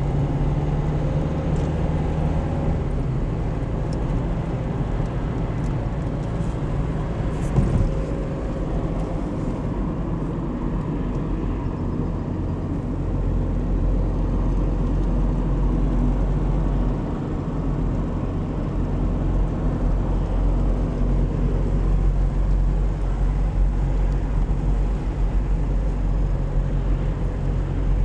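Car driving, heard from inside the cabin: a steady engine hum and tyre-and-road rumble, with the engine note shifting a few times and a single short knock about seven and a half seconds in.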